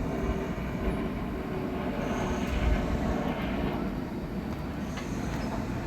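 Steady low rumble of city background noise, like distant traffic or an aircraft, swelling slightly a little before the middle.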